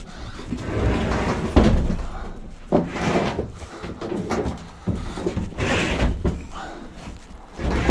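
Heavy washing machine being manhandled and lifted, its metal cabinet giving a run of irregular bangs and clunks, the sharpest about a second and a half in.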